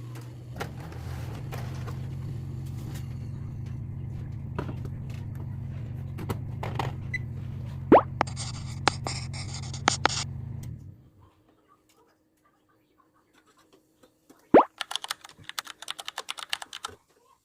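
A machine hums steadily and low under scattered clicks and knocks, with a short hiss about eight seconds in. The hum cuts off about eleven seconds in. After a pause come a sharp knock and a quick run of light clicks and clinks, like kitchenware being handled.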